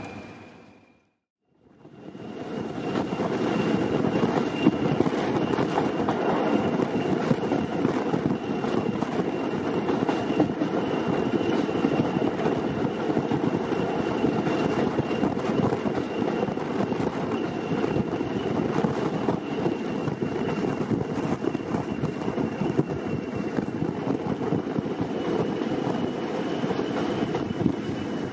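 Diesel locomotive running steadily, a constant rumbling engine noise with a faint steady whine above it. The sound drops out briefly about a second in, then comes back.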